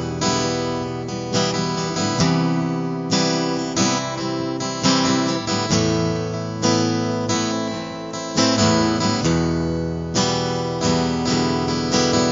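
Acoustic guitar strummed in a steady rhythm, the instrumental intro of a song before the vocals come in.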